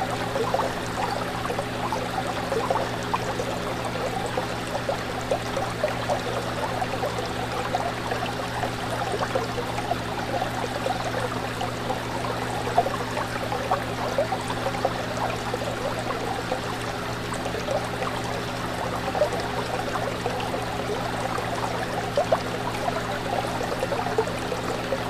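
Fish tank water bubbling and trickling steadily, with a steady low hum underneath.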